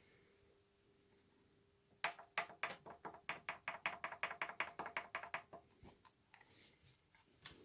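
A quick run of about sixteen sharp knocks, roughly four to five a second, starting about two seconds in and lasting some three and a half seconds, followed by a few scattered clicks.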